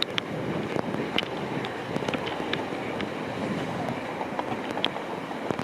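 Rainy city street: a steady wash of traffic noise with scattered sharp ticks throughout.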